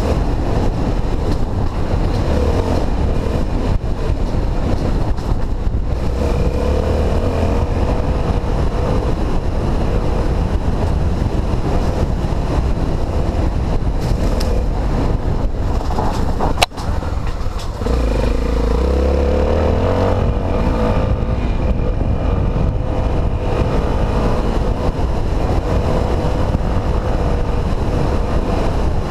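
Honda XR250 Tornado's single-cylinder four-stroke engine running on a trail ride, its pitch rising and falling as the throttle opens and closes. A single sharp click sounds a little past halfway.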